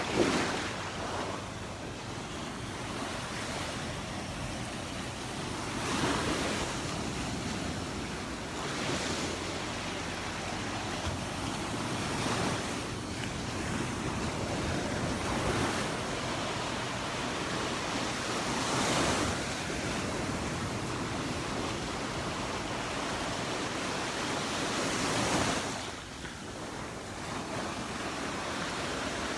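Surf on a Gulf beach: a steady wash of water with small waves breaking every few seconds, each swelling up and falling away.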